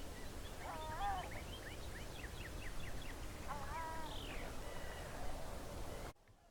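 Wild birds calling: a couple of short, harsh, nasal calls from a larger bird, and between them a rapid run of short, high notes from a small songbird. The sound cuts off abruptly near the end.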